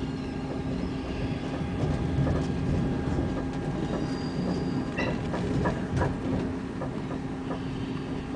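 Passenger train running, heard from inside the carriage: a steady rumble and hum, with sharp irregular clicks as the wheels cross rail joints and points, and a faint high wheel squeal about four seconds in.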